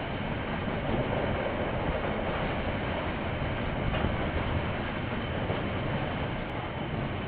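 Train passing on the rail line, a steady noise of wheels running on the rails, picked up by a security camera's microphone with the top end cut off.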